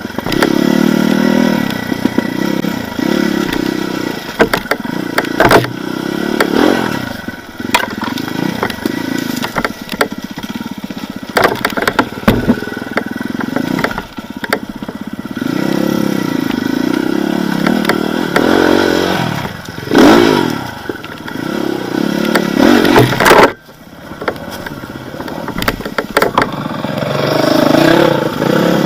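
Enduro motorcycle engine revving up and down in repeated bursts, with sharp knocks and clatter throughout. The engine sound dips abruptly about two-thirds of the way through, then comes back.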